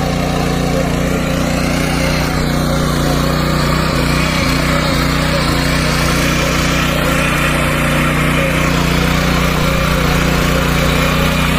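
Mini power tiller's 170F single-cylinder gasoline engine running at a steady speed.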